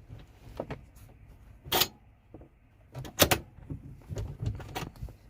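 Sharp clicks and knocks of fittings being handled inside a truck's sleeper cab, with two louder knocks, one under two seconds in and one a little after three seconds, and fainter taps between.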